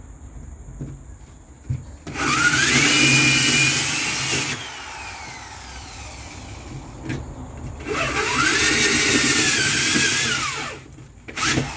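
Electric drill boring holes into a fridge body: two runs of a few seconds each, the motor speeding up, running steady, then winding down, with a brief third burst near the end.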